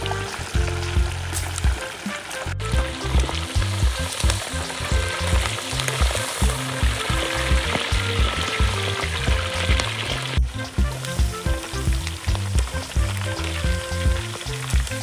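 Food sizzling as it fries in a hot pan, over background music with a steady beat and short melodic notes. The sound drops out for an instant twice.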